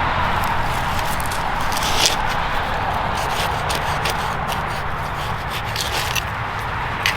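Digging by hand in thick, heavy garden soil: scattered scrapes and crackles of dirt being pulled aside, over a steady background hiss.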